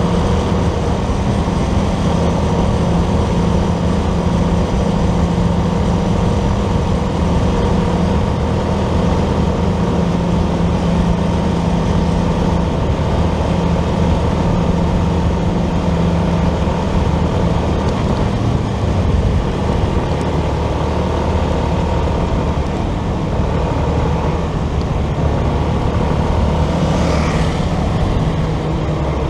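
Motorcycle engine running steadily while riding, with a constant rush of wind and road noise. Near the end a brief higher-pitched sound passes over it.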